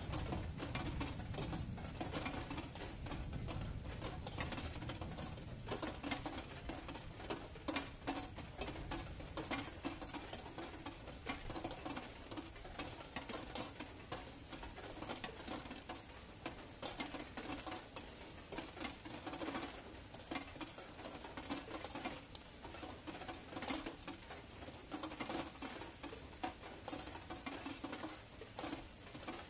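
Rain pattering steadily, a dense run of small drops hitting close by. In the first few seconds a low rumble of distant thunder dies away.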